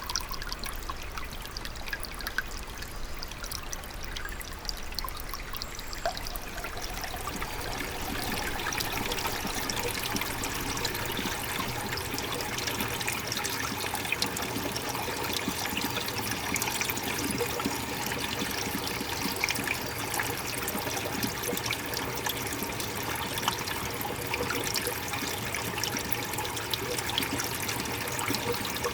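Running stream water trickling and splashing. About seven seconds in the sound grows fuller and a little louder.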